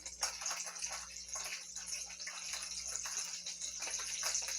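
Butter melting and sizzling in a hot pan with a little olive oil: a steady hiss with small crackles.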